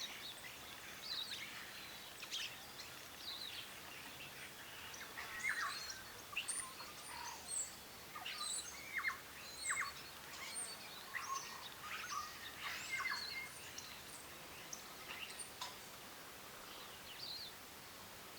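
Several small birds chirping and calling in many short, overlapping notes, busiest in the middle stretch, over a steady background hiss.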